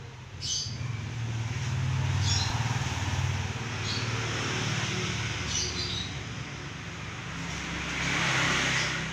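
Road traffic: a steady low engine hum, with vehicles swelling past twice, the second louder near the end. Short bird chirps come through a few times.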